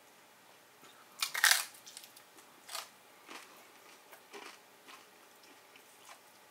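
Close-up eating sounds: a crunchy taco shell bitten into with one loud crunch about a second in, then chewed with several softer crunches.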